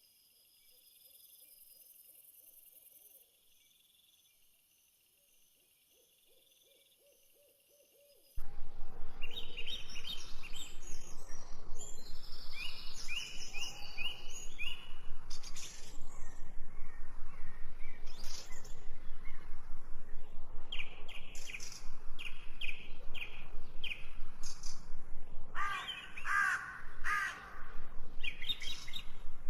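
Faint insect trilling, then about eight seconds in a sudden switch to loud birdsong: many birds chirping and calling over and over.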